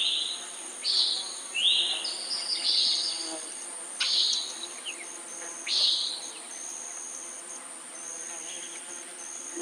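Common nighthawk giving its short, buzzy, nasal 'peent' call several times over the first six seconds, then falling quiet. A steady high-pitched insect chorus hums underneath throughout.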